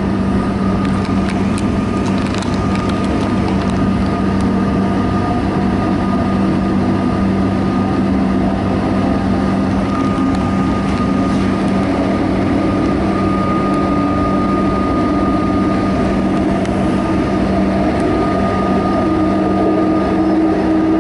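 Interior of a Melbourne suburban electric train running through an underground tunnel: a loud, steady rumble and rush of wheels and air, with a constant electric hum. A higher hum rises slightly near the end.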